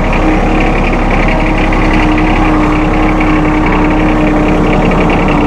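John Deere 2025R compact tractor's three-cylinder diesel engine running steadily as the tractor backs up in low range on its hydrostatic drive, with a steady whine over the engine sound.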